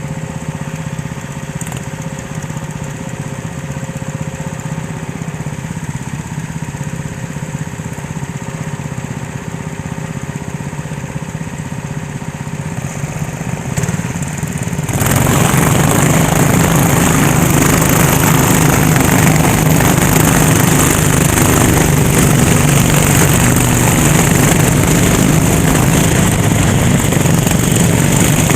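Kart engine running at a steady low note. About halfway through it jumps abruptly to a much louder, fuller sound that stays loud, as the kart goes onto the throttle.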